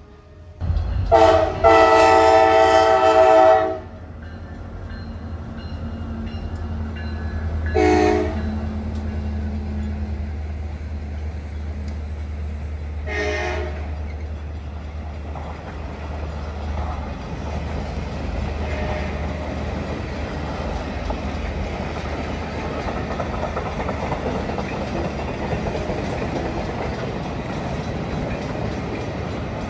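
Diesel locomotive horn sounding for a grade crossing: one long blast, then two short blasts about five seconds apart, over a low diesel engine rumble as the locomotives pass. After that the passenger cars roll by with steady wheel-on-rail noise.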